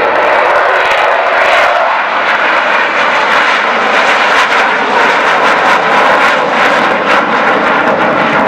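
Loud, steady engine noise of a fixed-wing aircraft flying a display pass.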